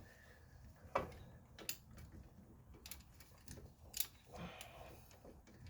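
A few scattered sharp clicks and light taps, roughly one a second, from hand tools working a threaded press screw against a stuck suspension shaft in a control arm bushing.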